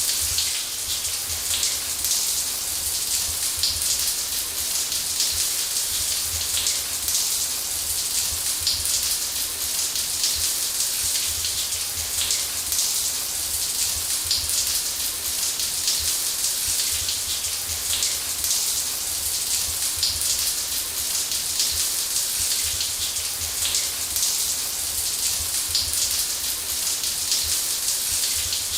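Running shower water hissing steadily, spray falling with a fine patter and a low rumble underneath.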